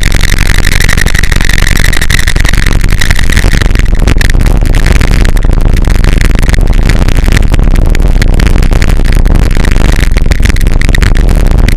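Harsh noise music: a constant, loud wall of distorted crackle over a low rumble, built from processed forge and anvil recordings. A steady high whine in it fades out about four seconds in.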